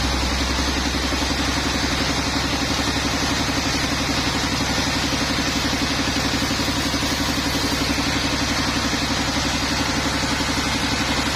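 Sawmill engine running steadily at an even speed, with a fast regular pulse.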